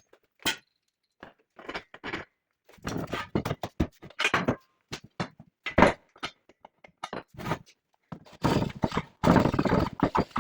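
Irregular knocks, clunks and short scraping sounds of metal parts and tools being handled in workshop work, separated by brief pauses.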